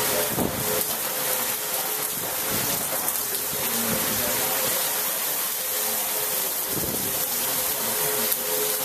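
Heavy rain pouring down in a steady, dense hiss, with brief low gusts of wind buffeting the microphone near the start and about seven seconds in.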